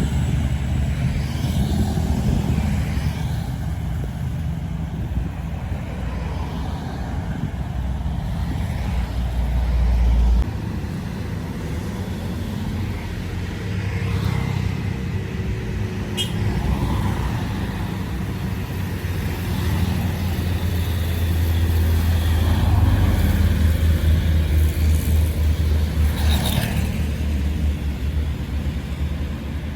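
Heavy truck engine running under load on a steep climb, a low rumble. A loud low drone stops suddenly about a third of the way through, and a pulsing rumble builds up again in the second half as another heavy vehicle labours past.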